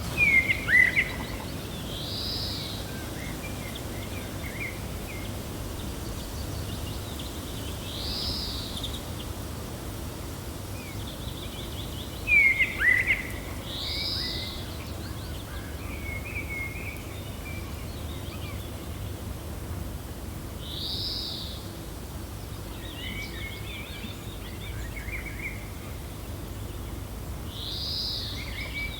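Gentle wind making a steady low rush, with birds chirping over it: a high arched call repeats about every six seconds, and two louder falling chirps come near the start and about thirteen seconds in.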